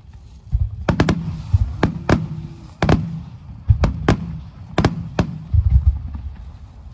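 Aerial firework shells bursting: about ten sharp bangs over four seconds, many in close pairs, with deeper rumbling thuds between them.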